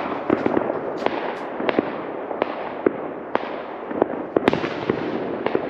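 Fireworks going off: a steady crackle and rumble with many sharp bangs at irregular intervals, several a second, some louder than the rest.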